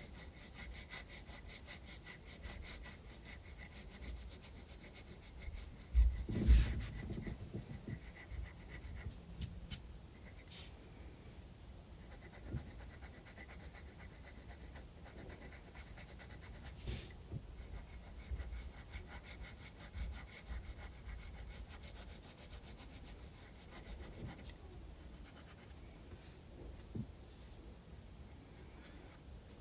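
Graphite pencil shading on sketchbook paper: rapid back-and-forth scratchy strokes that keep going with short pauses. A couple of soft low thumps about six seconds in are the loudest sounds.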